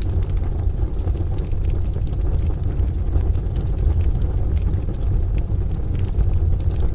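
Wood stove fire crackling, with scattered sharp pops, over a steady deep rumble of rain and distant thunder ambience.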